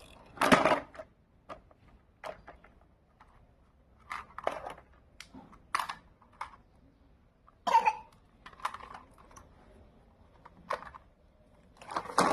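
Scattered short clicks and knocks at an irregular pace, with a few louder brief bursts about half a second and again about eight seconds in.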